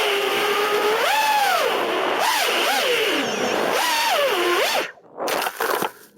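FPV quadcopter's Emax RS2205 brushless motors and propellers whining, the pitch rising and falling over and over with throttle. The motors cut out about five seconds in, spin up briefly once more, then stop.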